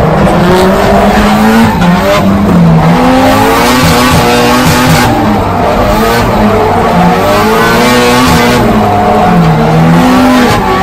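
Drift car's engine heard from inside the cabin, its pitch rising and falling over and over as the throttle is worked through a tandem drift, with the tyres skidding and squealing underneath.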